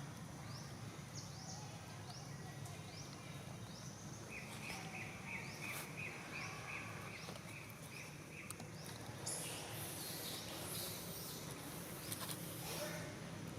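Forest ambience of birds and insects: short rising chirps repeat about twice a second, then a run of about a dozen evenly spaced notes at roughly three a second, and from about nine seconds in a high insect buzz sets in.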